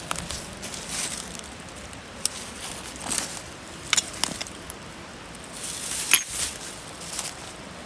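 Gear being handled: intermittent rustling and light clicks, with a sharp knock about six seconds in.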